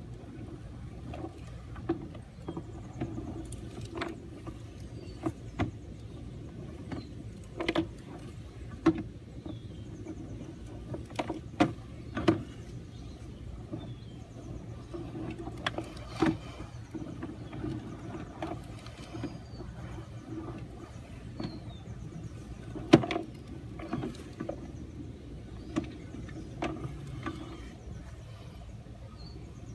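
Sewer inspection camera being pushed through the pipe: irregular sharp knocks and clicks, one notably louder about two-thirds of the way through, over a steady low hum.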